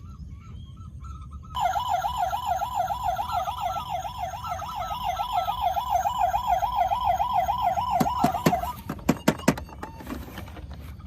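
Electronic toy siren starting about a second and a half in, warbling fast at about four wobbles a second, then cutting off, followed by a few sharp clicks.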